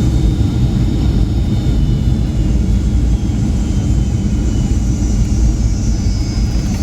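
Cabin noise of a Boeing 757-200 on landing: a loud, steady low rumble with high engine tones, which fall in pitch over the last couple of seconds as the engines wind down.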